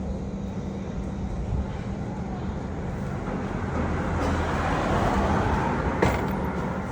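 An engine running with a steady low hum, growing louder through the middle and then easing off, with one sharp click about six seconds in.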